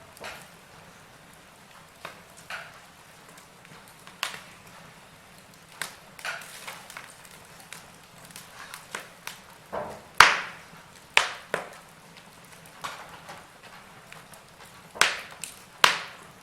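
Wood fire crackling: burning logs give irregular sharp pops and snaps over a faint steady hiss, with a cluster of louder pops near the end.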